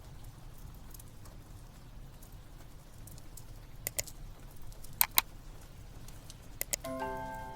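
Wood fire crackling over a low steady rumble, with scattered faint ticks and a few sharp pops, two of them in quick pairs. Near the end, soft sustained music notes come in.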